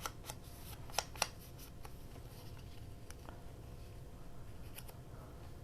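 Quiet handling noises of paper crafting at a table: a few short sharp clicks, two close together about a second in, over a faint steady hum.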